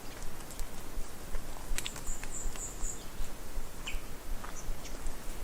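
Small birds calling: a quick run of four high chirps about two seconds in and a short falling call near four seconds, over scattered light clicks and a low rumble.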